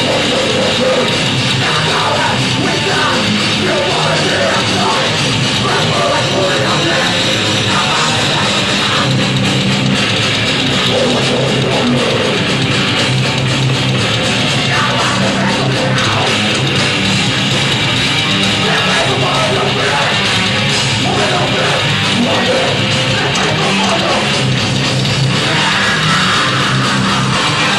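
Live heavy rock band playing a song at steady full volume, with electric guitar prominent.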